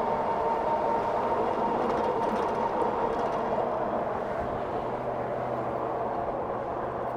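Riding along on a 60-volt e-bike: the electric motor gives a steady high whine that fades about halfway through, over steady rushing road and wind noise.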